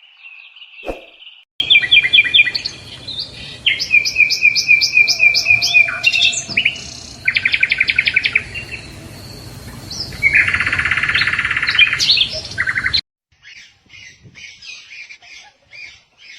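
Small songbird singing: quick series of repeated whistled notes and trills, with a long, loud, fast trill past the middle. The recording starts and stops abruptly, and fainter chirping follows near the end.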